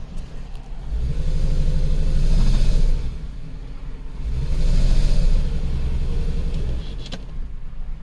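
2010 Chrysler Sebring's 2.7-litre V6 engine running rough with a misfire, on cylinder 2, and swelling louder twice as the throttle is opened, about a second in and again around the middle.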